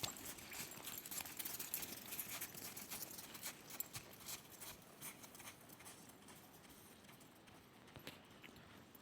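Hoofbeats of a Saddlebred horse: a run of sharp clicking steps that thins out and gets quieter after about five seconds, with one more step near the end.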